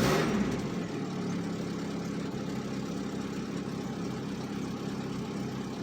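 An old car's gasoline engine idling steadily, having just caught after being flooded by cranking with the throttle floored. It is briefly louder right at the start, then settles into an even idle.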